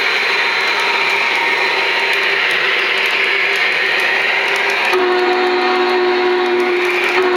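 Onboard sound system of a Lionel O-scale Union Pacific Big Boy 4-8-8-4 steam locomotive, played through its small speaker: a steady steam hiss, then about five seconds in a multi-chime steam whistle starts and is held.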